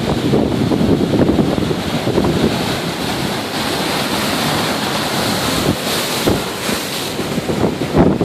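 Rough surf breaking and washing, a steady rush with a swell of hiss partway through, under strong wind buffeting the microphone.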